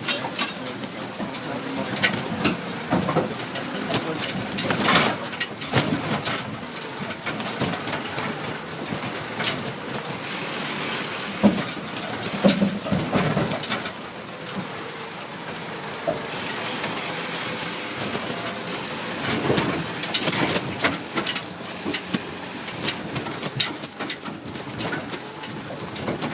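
Tractor engine running while riding a rough track, with frequent irregular knocks, clanks and rattles from the jolting.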